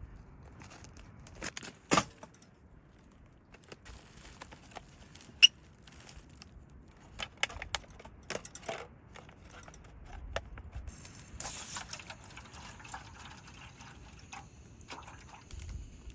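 Scattered clicks, taps and light knocks of small objects being handled, with a sharp click about five seconds in and a brief hiss a little before the end.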